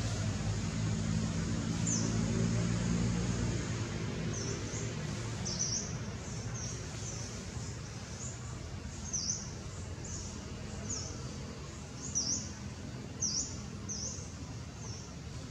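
A bird calling over and over in short high chirps, each a quick downward sweep, about one or two a second, over steady outdoor background noise. A low engine hum fades out in the first few seconds.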